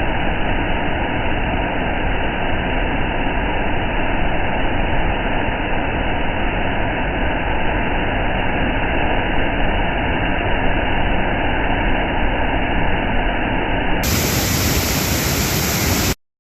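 A loud, steady rushing noise with no distinct tones that cuts off abruptly near the end.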